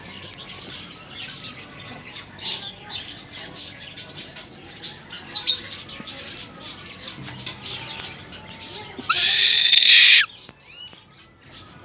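Owl giving one loud, harsh screech lasting about a second, about nine seconds in, against many short high chirps throughout.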